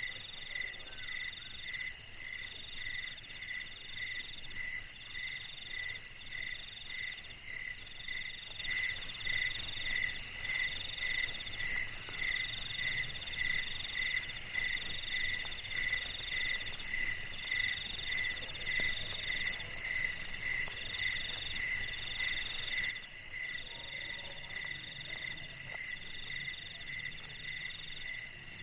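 Night chorus of crickets and other insects: several pulsing trills at different pitches overlap, a fast high trill, a lower chirp repeating about once or twice a second, and a middle trill in phrases about a second long with short gaps. The chorus grows louder about nine seconds in and drops back near twenty-three seconds.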